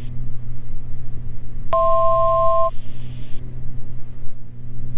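Steady drone of the Beechcraft G58 Baron's twin engines and propellers. About two seconds in, a two-tone electronic beep sounds for about a second.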